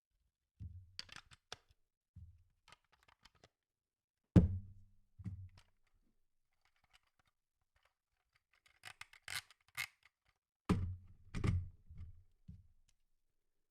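Handling sounds on a hard surface: a series of dull thumps, the loudest about four seconds in, with scratchy clicks between them and a brief crinkling, tearing stretch around nine to ten seconds in.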